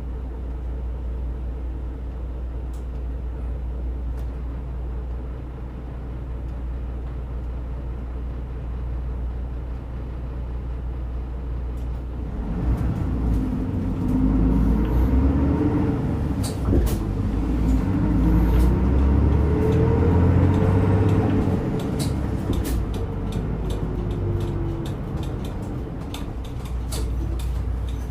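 Diesel route bus engine heard from inside the cabin, idling steadily. From about twelve seconds in, it revs up as the bus pulls away and accelerates, its pitch climbing through the gears. It then settles to a steadier run near the end.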